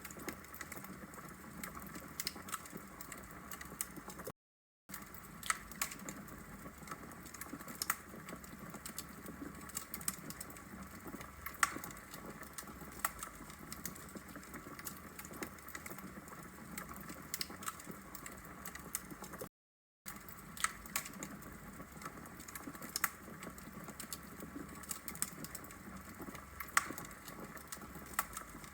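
Wood logs burning in a brick fireplace, crackling with frequent sharp, irregular pops over a steady soft hiss. The sound cuts out completely twice for about half a second.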